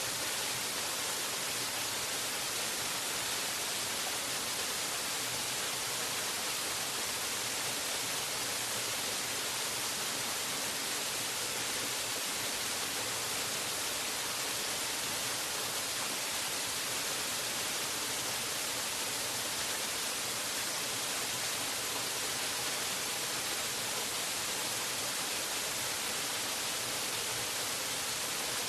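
Waterfall rushing in a steady, unbroken hiss of falling water that does not change in level.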